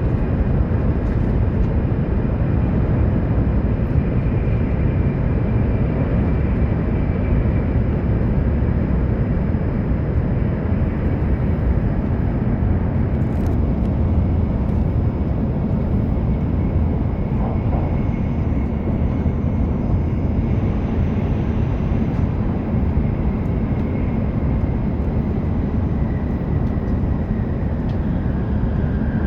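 Hokuriku Shinkansen train running at speed, heard inside the passenger car: a steady, unbroken rumble of running noise with a faint steady whine above it.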